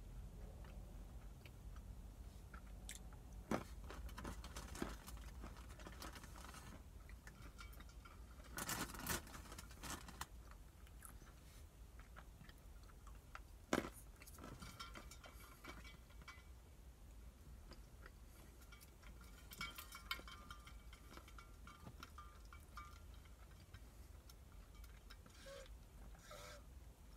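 Quiet chewing and crunching of almonds, with scattered sharp clicks and a few louder bursts of crunching, over a faint low hum. Near the end comes a drink from a water bottle.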